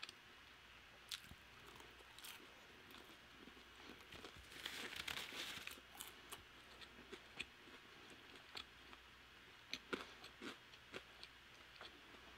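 Faint close-up chewing of crispy Korean fried chicken: soft crunches and wet mouth clicks, with a louder stretch of crunching about four to six seconds in.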